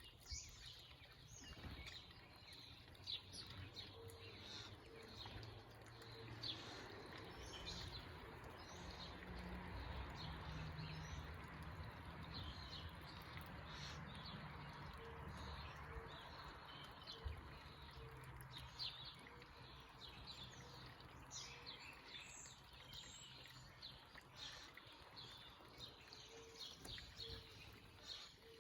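Small backyard birds chirping in many short high calls, over a faint background rush with a low rumble that swells in the middle and fades again.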